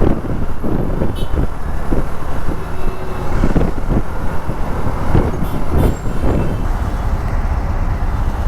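Hero XPulse 200 motorcycle's single-cylinder engine running while riding through city traffic, with a steady low rumble of road and wind noise and the sound of surrounding vehicles.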